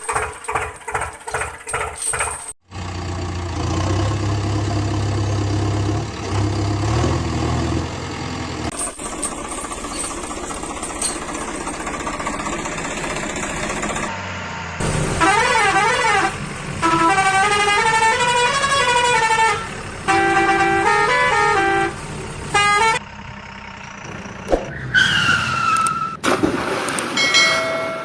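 A string of cartoon vehicle sound effects: a low engine hum early on, then a loud warbling horn tune for several seconds, with pitch that zigzags up and down.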